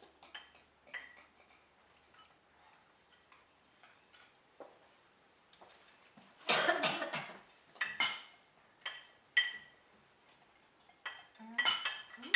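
Cutlery and dishes clinking now and then at a meal table: scattered light taps and clinks, with a louder clatter about six and a half seconds in.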